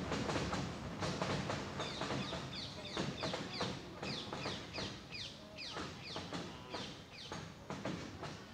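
A bird calling a rapid series of short chirps, each falling in pitch, about two a second, over a low rumble that fades away.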